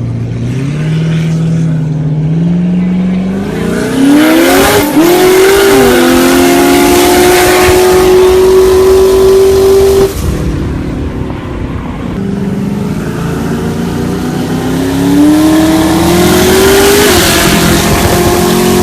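Twin-turbo cast-iron LQ9 V8 of a VE Clubsport running at full throttle: the engine note climbs steeply, dips briefly about five seconds in, then holds high and loud for several seconds. It falls away about ten seconds in, then climbs again and holds high near the end.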